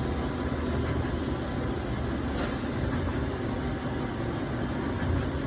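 CNC lathe running with a steady machine hum and hiss while its spindle turns; a faint high whine stops a little over two seconds in.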